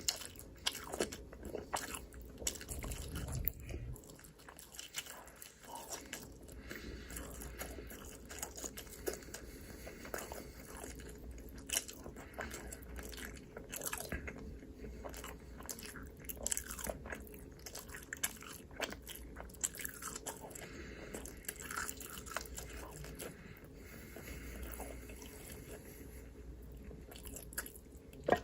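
Close-miked eating: a person biting and chewing, with many irregular crunchy clicks and smacks.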